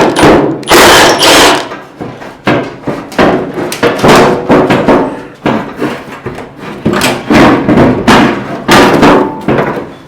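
Repeated loud metal clanks and bangs on the steel front fender of a 1957 GMC truck, about two a second and irregular, some with a short ring. The fender is being worked at while something hidden still holds it on.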